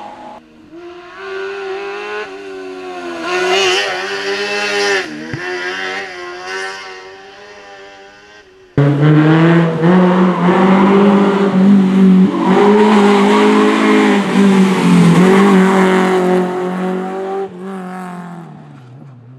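Slalom race cars' engines revving hard, the pitch climbing and dropping through gear changes, with tyre squeal. About nine seconds in the sound cuts abruptly to a second, much louder car running at high revs close by, which then fades away near the end.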